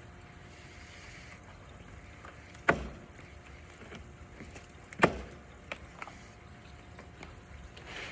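Steady rain falling, with two loud sharp knocks about two and a half seconds apart and a few lighter ticks after the second.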